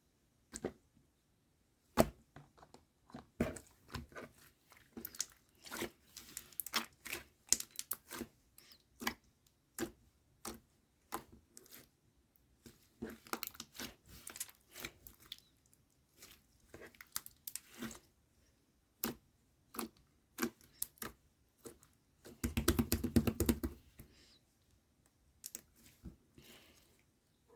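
Slime mixed with pearl beads being squeezed and pressed by hand, giving irregular crackling clicks and pops, with a dense run of crackling a little before the end.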